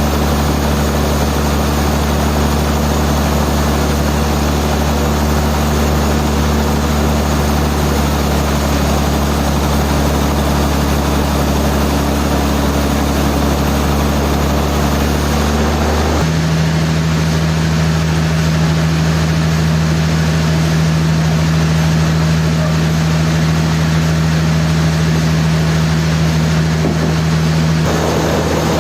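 Heavy sawmill machinery running with a steady low hum. The hum changes pitch abruptly about sixteen seconds in and shifts again near the end.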